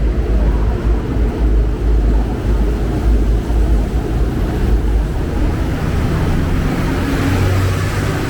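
City street traffic: vehicle engines running with a steady low rumble, and a deeper engine tone rising in the mix near the end.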